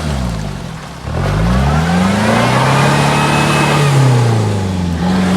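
Off-road SUV engine revving: the revs drop, climb again about a second in, are held high for a couple of seconds with a faint whine on top, then fall away near the end.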